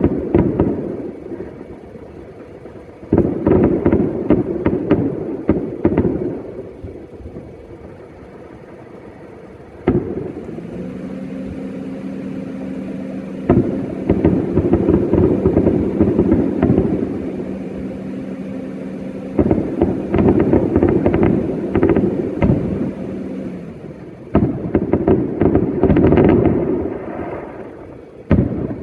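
New Year fireworks going off in repeated volleys, each a few seconds of dense rapid crackling and booming, about six volleys in all. A steady low hum sounds under the middle stretch.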